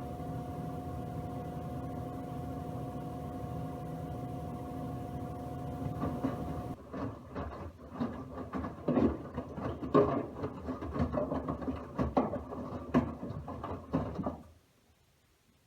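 Miele W1 WMV960 washing machine running: a steady hum with a whine until about seven seconds in, then irregular knocks and swishes as the drum turns, which stop suddenly near the end.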